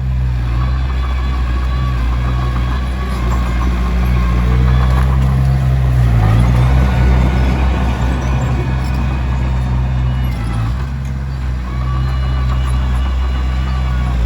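Diesel engine of a Komatsu D21P bulldozer running under load while it pushes stone, with a steady low drone that grows louder in the middle and dips in pitch briefly twice.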